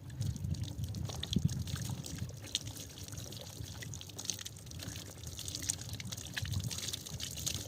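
Water trickling, with scattered faint ticks.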